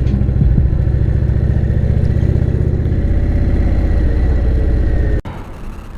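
Motorcycle engine running with a steady, evenly pulsing low note, which cuts off abruptly about five seconds in.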